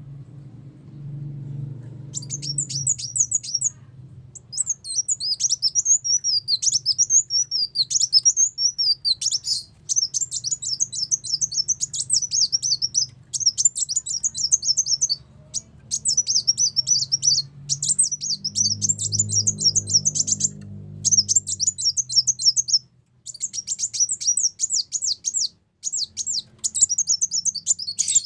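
Sunbird song of the kind Indonesian bird-keepers call kolibri wulung, played as a lure call: rapid, high twittering chirps in long bursts with short breaks, starting about two seconds in, over a faint low hum.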